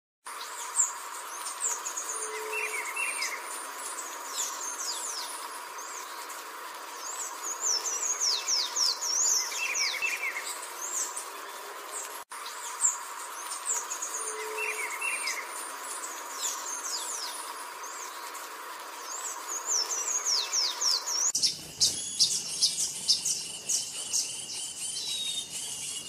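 Small songbird calling, in bursts of high, quickly falling chirps with lower twittering notes; the same sequence repeats after about twelve seconds. Near the end it changes to a fast, dense run of high chirps.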